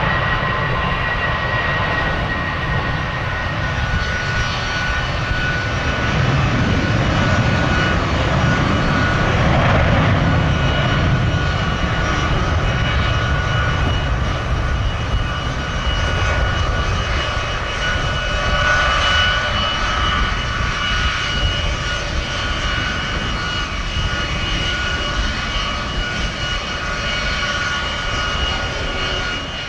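Jet airliner engines running, a steady turbine whine over a dense low rumble, a little louder for a few seconds near the middle, with wind buffeting the microphone.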